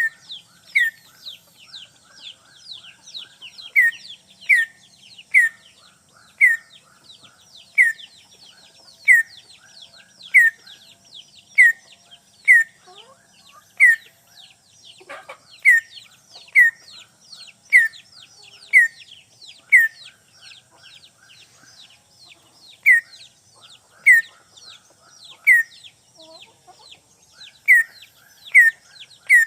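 Green leafbird (cucak ijo) lure call: loud, sharp, short notes that drop in pitch, repeated about once a second in runs with brief pauses, over a steady fainter high twittering. It is the challenging call used to draw in a rival bird.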